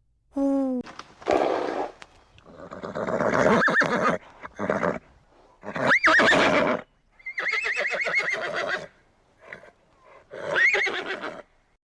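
Horse whinnying over and over in a string of separate calls with short gaps between them, some sliding quickly up and down in pitch and one with a fast quaver.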